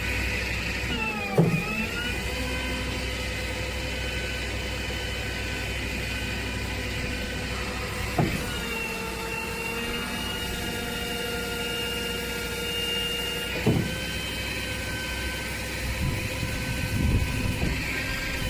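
Rollback flatbed tow truck's hydraulics running, a steady whine over the engine, its pitch shifting with a short clunk three times as the controls are switched: about a second and a half in, about eight seconds in and near thirteen and a half seconds in.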